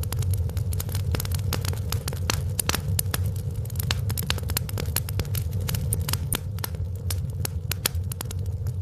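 Wood fire crackling in a fireplace: many quick, irregular pops and snaps over a steady low rumble of the flames.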